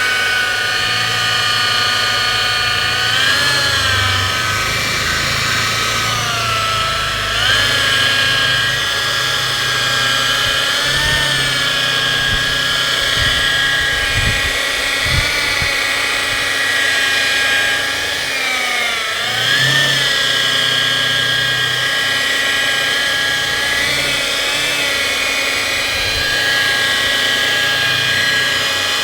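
Electric car-body polisher running steadily while buffing rubbing compound on paint. Its whine dips and recovers in pitch several times.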